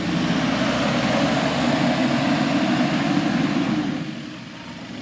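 Off-road jeep engine running loudly, dying down about four seconds in.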